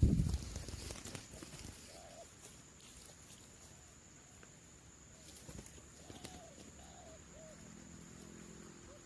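Spotted doves (terkukur) cooing in short, soft, arched notes: one around two seconds in, then a run of several from about six to seven and a half seconds. A loud rush of noise fades out over the first second, and a faint steady high-pitched whine runs underneath.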